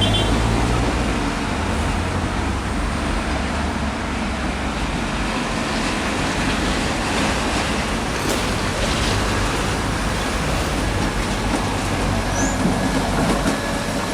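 Ride-on floor scrubber running with a steady mechanical noise.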